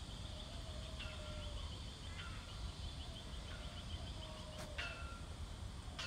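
Birds calling: a series of sharp whistled notes that slide steeply downward and end on a brief held tone, roughly one a second, the loudest about five seconds in. Under them runs a fast ticking trill, over a low wind rumble.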